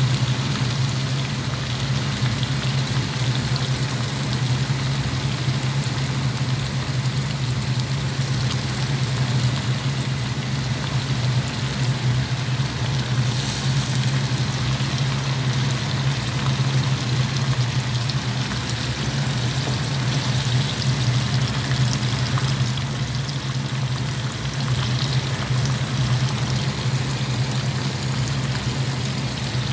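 Chicken pieces and diced onion frying in oil in a pan, a steady sizzle throughout, stirred and turned with a spatula now and then. Under it runs a steady low machine hum, the loudest sound.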